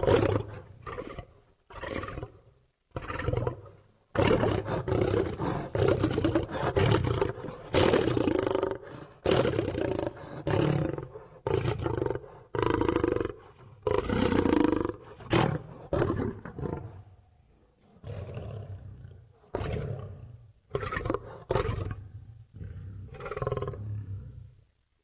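Lion roaring sound effects: a rapid series of roars and growls, each a second or two long with short gaps between, starting suddenly.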